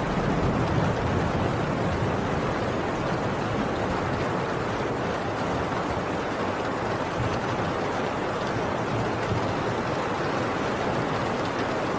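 Heavy rain pouring steadily on a tin roof, an even hiss of drops on metal, with a low rumble swelling slightly in the first couple of seconds.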